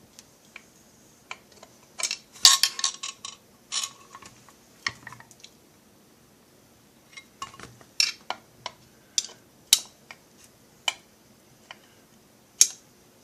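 Scattered sharp metallic clicks and clinks of hand tools and small metal parts being handled on a workbench during chainsaw crankcase assembly, with a short run of rattling clinks about two seconds in.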